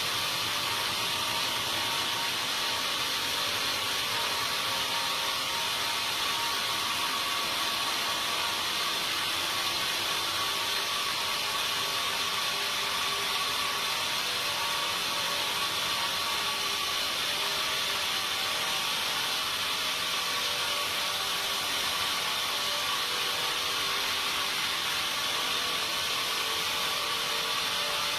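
Sawmill machinery running steadily, a continuous even machine noise with faint steady hum tones and no breaks or separate impacts.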